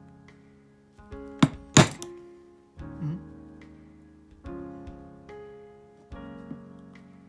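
Background music of sustained keyboard chords, with two sharp knocks close together about one and a half seconds in, typical of a mallet striking a leather-working punch or stitching chisel.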